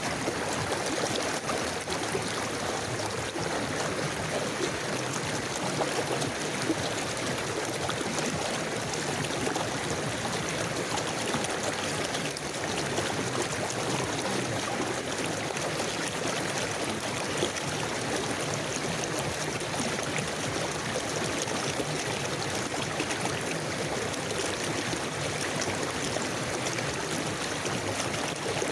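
River water flowing and burbling steadily over stones, an even rushing with fine splashing detail.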